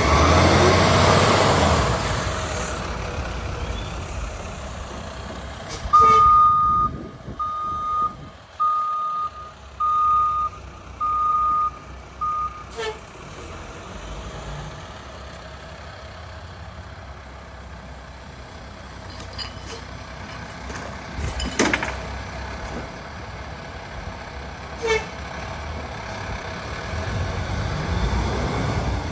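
Garbage truck (International HV with a Heil PowerTrak rear-loader body) running: its engine is loud at first and then settles to an idle. Its reversing alarm gives six steady beeps in a row a few seconds in, and the engine speeds up again near the end, with a few sharp clicks in between.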